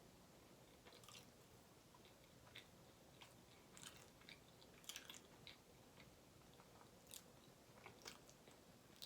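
Faint close-up chewing of soft food, butter chicken and garlic naan, with scattered short wet mouth clicks, about one or two a second.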